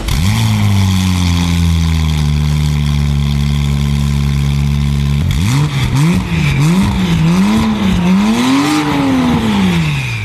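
Porsche 911 Carrera (991.2) 3.0-litre twin-turbo flat-six through an iPE valved performance exhaust, revving. It climbs quickly and holds a steady pitch for about five seconds. Then it blips the throttle rapidly four or five times, ending with a longer rev that rises and falls away.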